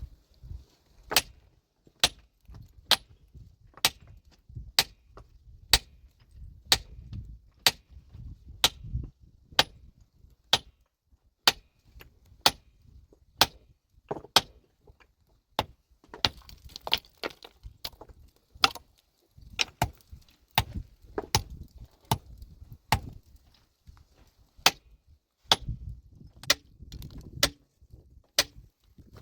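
A metal tool striking rock in a steady rhythm, about once a second, each blow a sharp ringing clink as stone is broken by hand. Low scraping and shuffling come between some of the blows.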